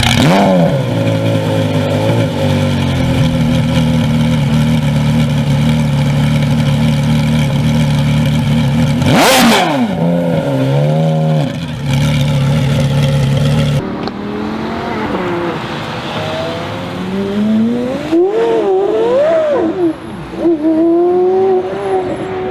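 Porsche Carrera GT's 5.7-litre V10 running at steady revs, with a sharp crack about nine seconds in as the pitch drops and climbs again. After an abrupt cut it revs up, wavers, and settles into a steady higher note.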